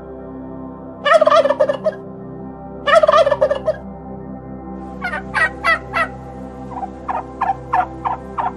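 A large bird calling: two rapid rattling bursts, each under a second long, then a run of short, separate calls. Steady ambient music plays underneath.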